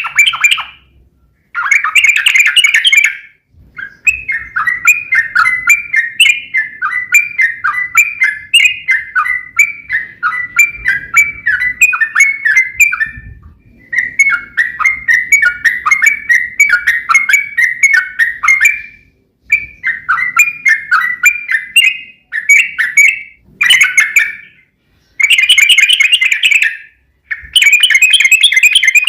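Yellow-vented bulbul (trucuk) singing long runs of fast chattering notes, broken by short pauses, with shorter bursts toward the end.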